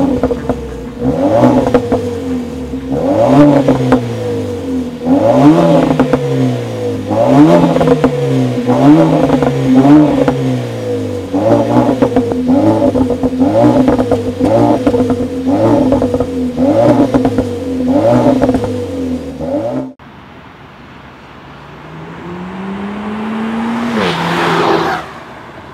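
Renault Mégane RS 1.8-litre turbo four-cylinder engine and exhaust being revved again and again in short throttle blips, each rising and falling back, about one every one and a half to two seconds. After an abrupt cut about twenty seconds in, it gives one slower, quieter rising pull that stops suddenly.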